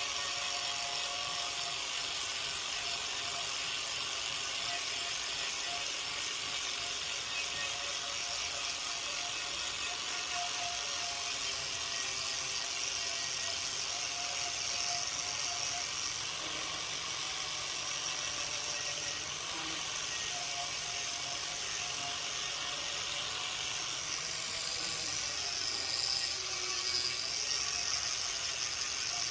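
A power tool running steadily in a workshop, a continuous whir with a strong hiss, its pitch shifting a little about halfway through and growing slightly louder near the end.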